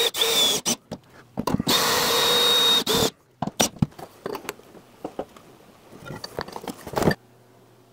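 Power drill running twice, the second time for about a second and a half with a steady high whine, then a scatter of clicks and knocks.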